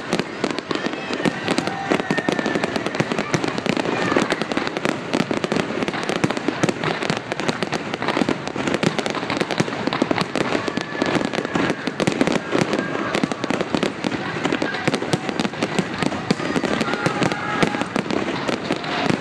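Aerial fireworks going off in a dense, continuous barrage of rapid bangs and crackles, with no pause.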